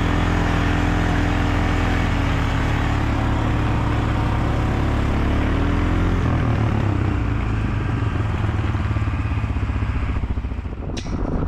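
A vehicle engine running steadily, its pitch shifting about six seconds in, then fading near the end, where a couple of sharp clicks sound.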